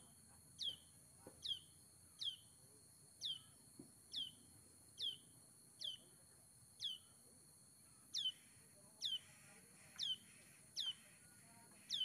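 A small bird repeating a short, sharply falling call note about once a second, louder from about two-thirds of the way through.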